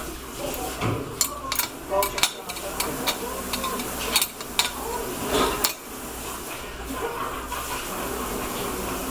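Tableware clinking: dishes and cutlery knocking together in a series of sharp clinks over the first six seconds or so, with a murmur of voices underneath.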